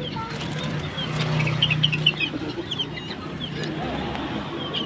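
Chickens clucking, with many short chirps from small caged birds over a steady low murmur of background noise.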